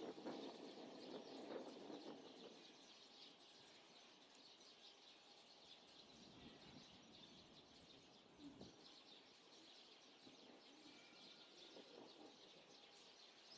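Near silence: faint outdoor ambience with small birds chirping faintly in the distance.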